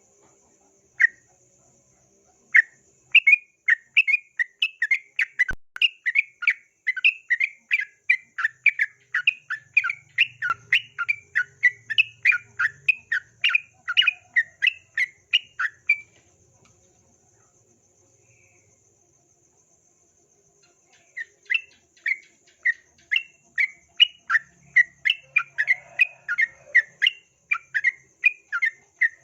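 Yellow-vented bulbul (trucukan) calling in long rapid runs of short, sharp whistled notes, about three a second. The calling stops for about five seconds in the middle, then starts again.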